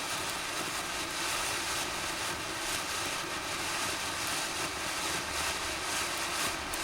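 Fireworks going off in a dense, continuous crackling hiss, with many small pops running together at a steady level.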